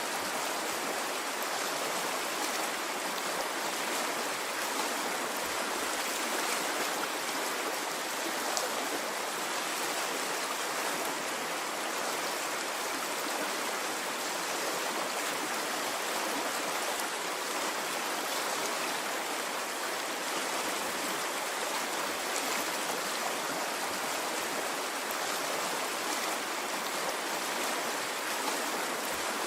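Flowing stream water running steadily: an even wash of water noise that holds the same level throughout, with no rise and fall of waves.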